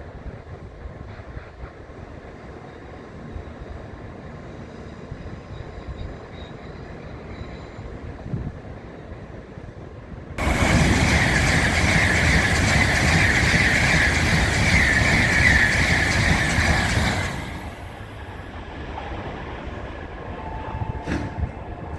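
A Tokaido Shinkansen train passes through the station at speed. A low rumble gives way, about ten seconds in, to a sudden loud rush of wind and rail noise lasting about seven seconds, which then drops away quickly.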